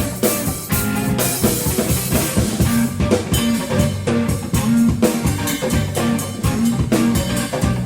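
Live band jamming instrumentally: electric guitar and a driving drum kit playing a repeating riff.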